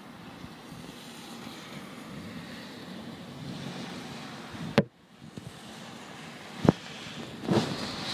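Steady hiss of heavy rain at night, with wind buffeting the microphone. Two sharp knocks cut through it, about five and seven seconds in, the first followed by a brief drop-out, and a short louder rustle comes near the end.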